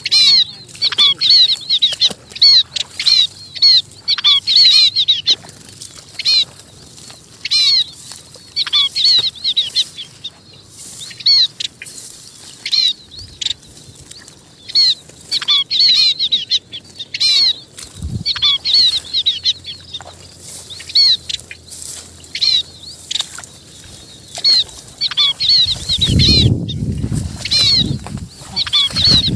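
Munias (chim ri) calling: short, high chirps repeated in quick clusters with brief pauses between them, the call a munia uses to gather its flock. Near the end a low rumbling noise joins in under the calls.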